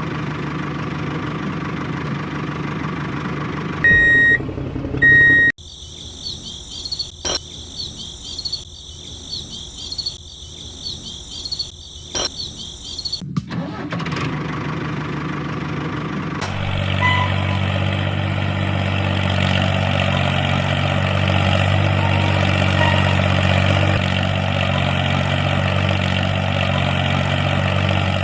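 A steady engine running, cut about four seconds in by two short, loud, high beeps, then several seconds of a high hissing, chirring sound with two sharp clicks. The engine sound comes back and, from about seventeen seconds in, runs louder and deeper, steady to the end.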